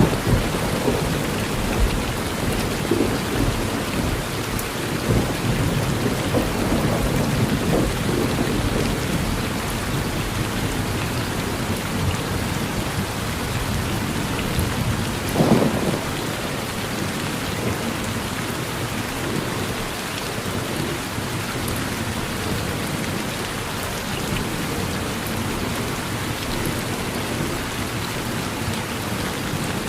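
Steady rain falling on a porch, with low rolling thunder through roughly the first third. A short, louder low thump comes about halfway through.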